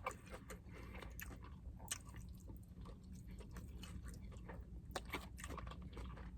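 A person chewing a mouthful of food close to the microphone, with scattered wet mouth clicks and smacks. The chewing is faint, and a few clicks stand out louder, near the start, about two seconds in and about five seconds in.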